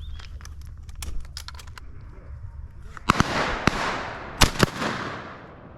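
Four sharp shotgun reports a little after three seconds in, in two groups, the last two close together, over a rushing noise that dies away near the end. Before them comes a run of light clicks.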